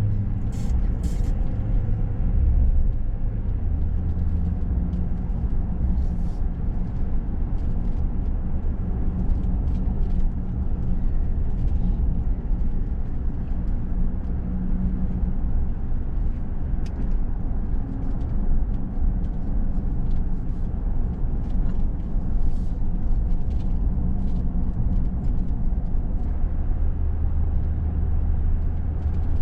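Motor vehicle driving: a steady low engine and road rumble, with scattered light clicks and rattles.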